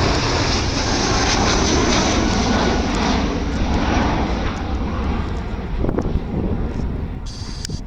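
Airbus A319's IAE V2500 turbofan engines at takeoff thrust: a loud, steady jet roar that slowly fades over the last few seconds as the aircraft departs.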